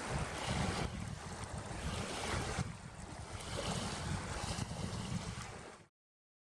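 Wind buffeting the microphone outdoors, a gusty low rumble over a steady hiss, cutting off suddenly near the end.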